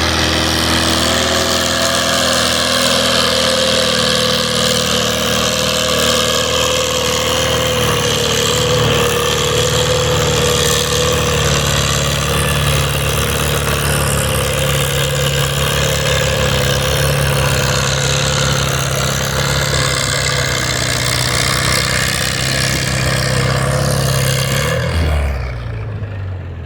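Farm tractor engine running hard under load while pulling the sled down the track, steady for most of the run. Near the end it throttles down and the sound falls away.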